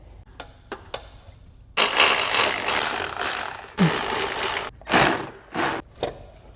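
A power wrench running in bursts as bolts are taken out: a run of about two seconds, then three shorter bursts, after a few sharp clicks of tools.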